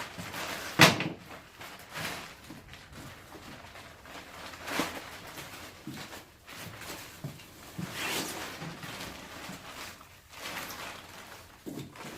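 Plastic tarp being unfolded and spread out, rustling and crinkling in irregular bursts, with one sharp knock about a second in.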